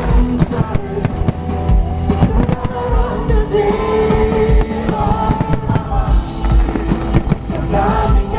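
Live concert music through a loud PA, with a heavy bass beat and a singing voice, and fireworks bangs and crackles over it throughout.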